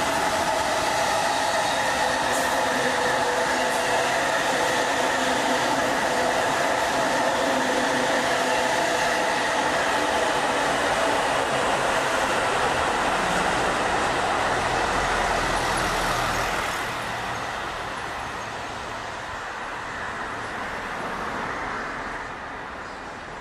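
Electric commuter trains running past on the tracks: a loud, steady rumble of wheels on rail, with a whine of several steady pitches over the first half. The noise falls away after about 17 s and keeps fading toward the end.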